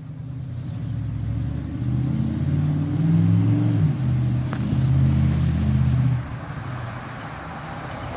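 Chevy 454 big-block V8 in a truck, loud, revving and pulling hard under throttle. It climbs for about four seconds, dips briefly, climbs again, then drops back to a lower, steadier note about six seconds in.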